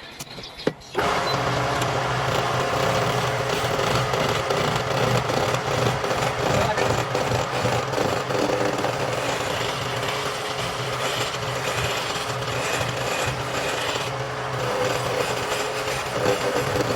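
Wood lathe that starts with a click about a second in and then runs steadily, its motor humming under the scraping of a turning tool cutting the spinning wood.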